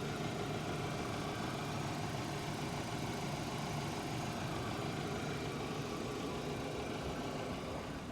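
Hyundai Accent engine idling steadily when cold, picked up close by on its left, gearbox side. There is no knock from the clutch release bearing or the gearbox input-shaft bearing: everything sounds normal at this stage.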